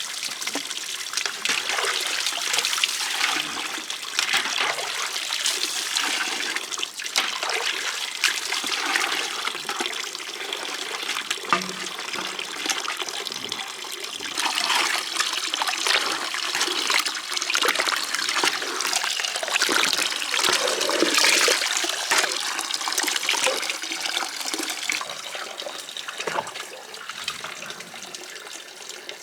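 Water running and splashing, uneven in strength, with many small irregular splashes and knocks.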